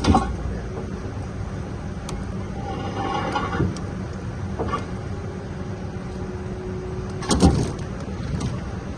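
Vehicle engine running with a steady low rumble, heard from inside the vehicle, with a few short knocks and bumps; the loudest comes about seven and a half seconds in.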